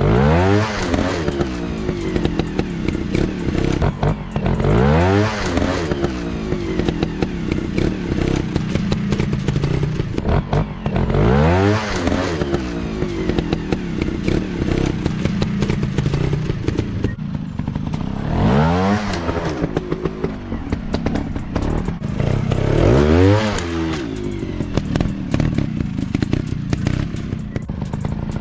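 Dirt bike engines running, revving up and dropping back five or six times, each rev a quick rising then falling note.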